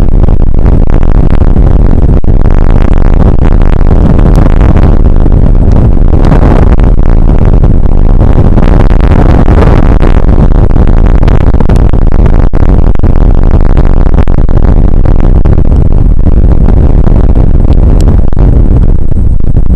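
A rain shower picked up by an outdoor weather camera's microphone: a loud, steady rushing noise, overloaded and heaviest in the low end.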